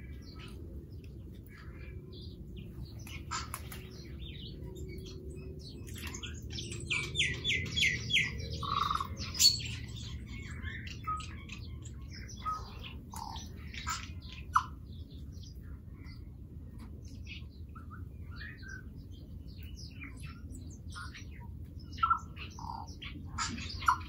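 Small birds chirping and calling, many short chirps scattered through, with a quick run of about five notes about seven seconds in. A steady low rumble lies underneath.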